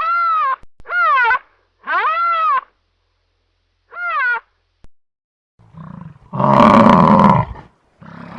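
Four short animal calls, each rising then falling in pitch, then about six seconds in a loud, rough roar lasting about two seconds, with another roar starting at the very end.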